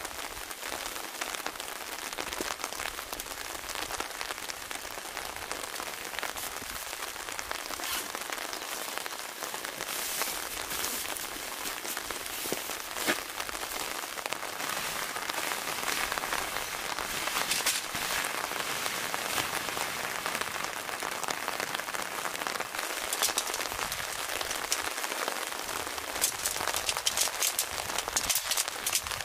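Steady rain falling: a dense hiss of many small drop ticks, growing a little heavier in the last few seconds.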